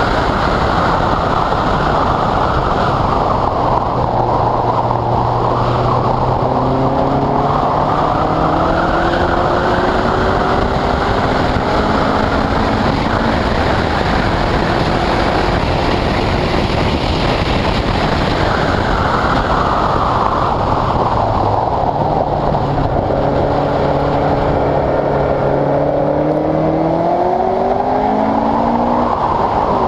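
Onboard sound of a Westfield sports car at speed on a wet track. The engine note climbs through the gears in stepped upshifts, once in the first third and again in the last third, over a steady loud rush of wind and wet-tyre noise.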